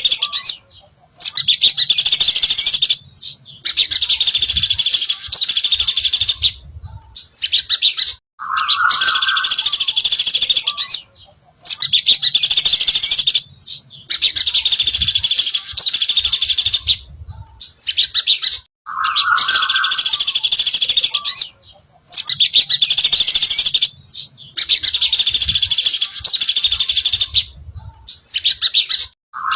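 Sogon dasi trotol songbird singing: loud, rapid, high chirping phrases of two to three seconds each, repeated one after another with short pauses between them. A few of the phrases open with a short lower note.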